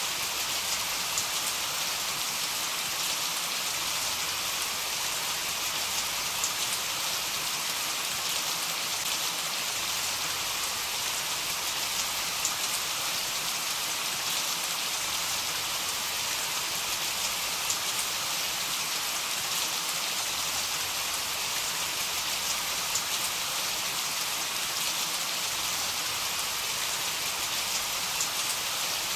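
Heavy rain falling steadily: a dense, even hiss of drops with fine individual patters, unchanging throughout.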